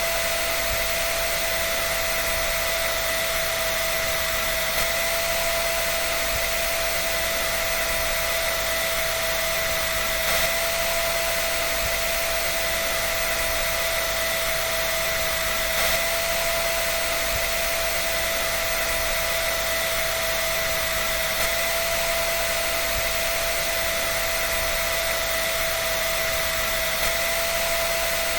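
Electric dryer running steadily: an even rush of air with a constant whine held at two pitches.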